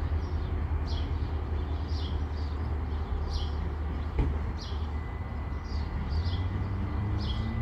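Low, steady rumble of a Norfolk Southern diesel locomotive train, now far off down the line, with a bird chirping about twice a second over it.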